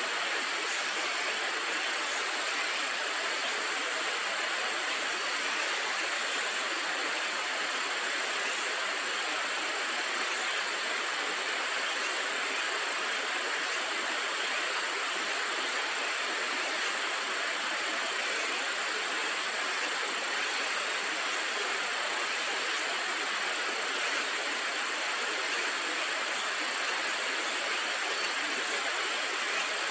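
Steady rush of river water, an even noise that does not change.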